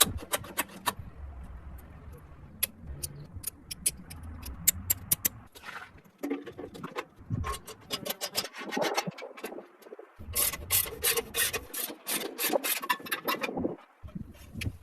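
Hand work on motorcycle parts: irregular rubbing and scraping, broken by many sharp clicks and knocks.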